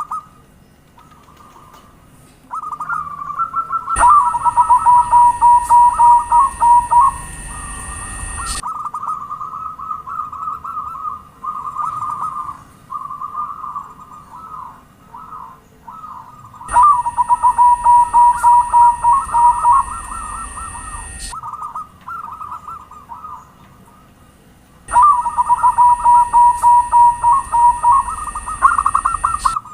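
Zebra dove (perkutut) cooing its song, a rapid run of soft bubbling coos. Three louder passages of song come about four seconds each, with a steady high hiss and low rumble under them, and softer coos fill the gaps between.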